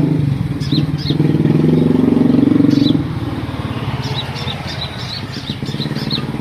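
A motor engine running steadily, louder for the first three seconds, with a small songbird's short high chirps over it: a few near the start, then a quick run of them from about four seconds in.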